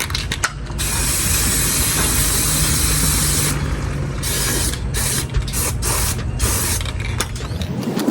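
Aerosol chain cleaner spraying onto a dirt bike's chain: one long hiss of about two and a half seconds, then several shorter sprays. Underneath runs a steady low mechanical rattling that stops near the end.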